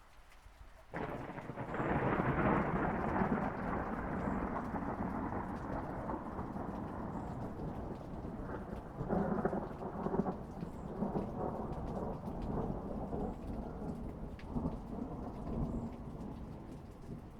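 Thunder over steady rain: a sudden crack about a second in opens into a long rolling rumble. The rumble swells again about halfway through and dies away near the end.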